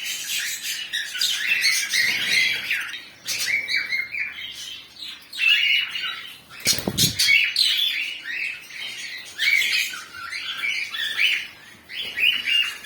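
Budgerigars chattering and squawking in a continuous stream of short, quick warbles and chirps. A brief low thump about halfway through.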